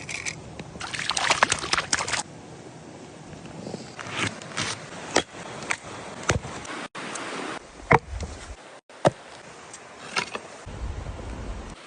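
Water splashing and sloshing, with many sharp knocks and clicks scattered through it and a burst of louder splashing near the start. The sound drops out abruptly twice, about seven and nine seconds in.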